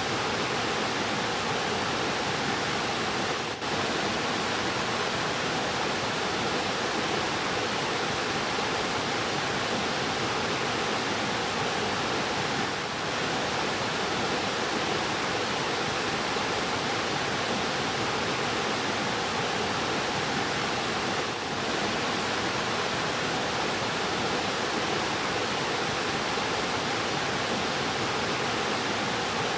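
Fast-flowing river rushing steadily, an even wash of water noise with three brief dips in level.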